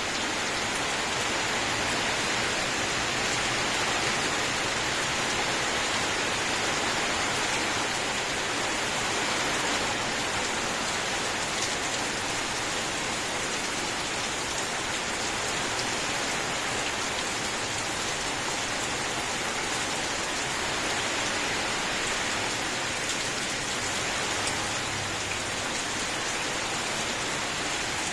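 Steady rain falling and pattering on a surface, an even hiss with no thunder.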